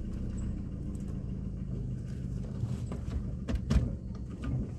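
Car engine idling, heard from inside the cabin as a steady low hum. About three and a half seconds in, a few sharp clicks as the automatic gear selector is moved.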